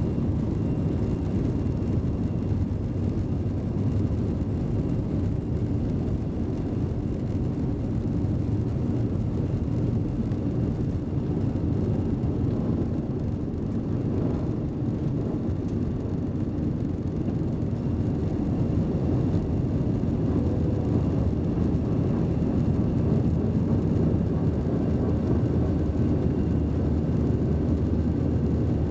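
Airbus A320 jet engines under takeoff thrust heard inside the passenger cabin: a steady, deep rumble and roar, getting slightly louder about two-thirds of the way through.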